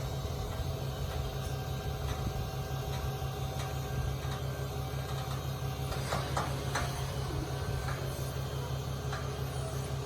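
A vehicle engine running steadily with a regular low throb, with a few brief clicks or knocks about two-thirds of the way through.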